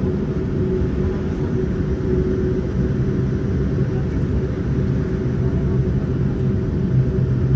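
Cabin noise of a Boeing 787-9 airliner on the ground before takeoff: a steady rumble with a low hum.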